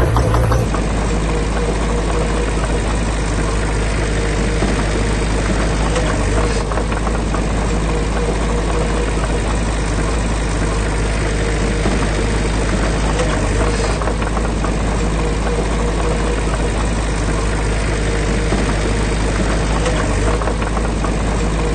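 Heavy diesel engine of earthmoving machinery running steadily with a low rumble.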